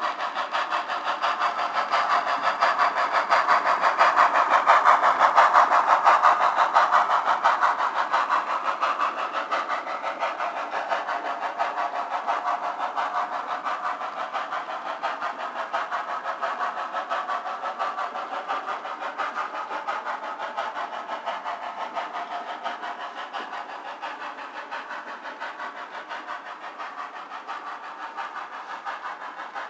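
Bachmann HO scale Norfolk & Western 611 steam locomotive's DCC sound decoder playing fast, even steam chuffs through its small onboard speaker. The chuffing is loudest a few seconds in, then slowly fades.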